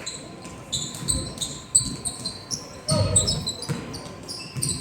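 Basketball game play on a gym court: a ball thudding on the floor a few times, with many short, high sneaker squeaks scattered throughout.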